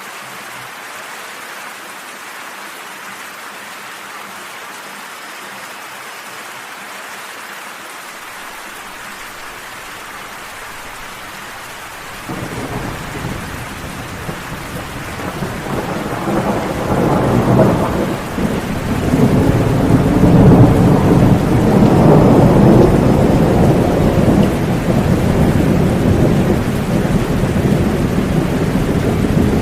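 Steady rain falling, joined about twelve seconds in by a long, low roll of thunder that swells over several seconds and keeps rumbling under the rain.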